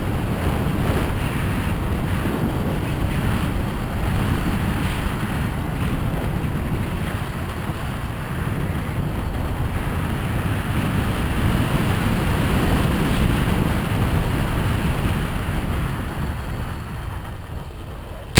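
Wind buffeting the microphone over the running engine of a Yamaha YZ250FX four-stroke dirt bike while it is being ridden. The noise eases off near the end.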